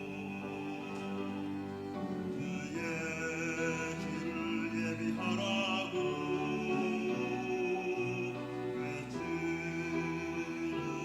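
Church choir singing a sacred anthem in slow, held chords, the voices wavering with vibrato on the sustained notes.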